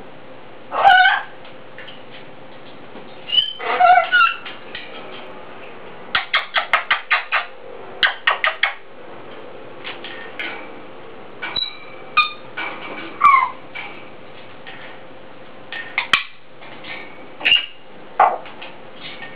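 Grey parrot calling in a run of varied sounds: gliding whistled calls, quick runs of short clicking notes and falling whistles, with pauses between them.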